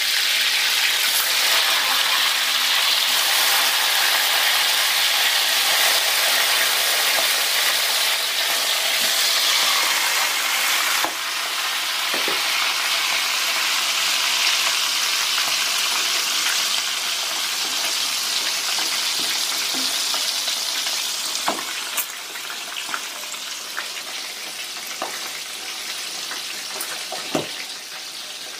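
Chicken pieces deep-frying in hot oil in a frying pan: a steady, loud sizzle with scattered crackles and pops. The sizzle drops in level about eleven seconds in and eases further in the second half.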